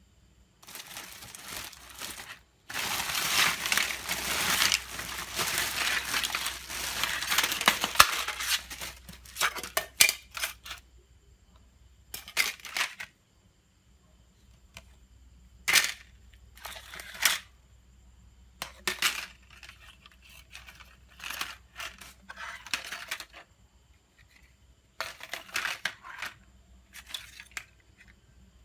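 Hand-work noises on a smartphone: a few seconds of continuous rustling and scraping, then short scrapes and clicks at intervals.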